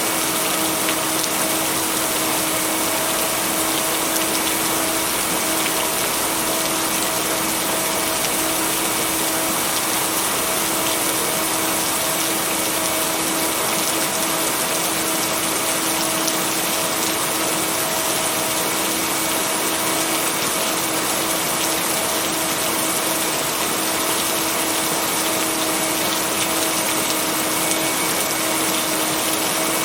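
Steady, dense rainfall, an even hiss with no breaks, with a constant low tone held underneath it from a blended binaural-beat track.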